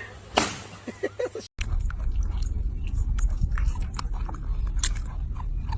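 Close-up chewing: many short crunchy clicks over a steady low hum, starting after a brief break about a second and a half in. Before the break there are a few sharp knocks.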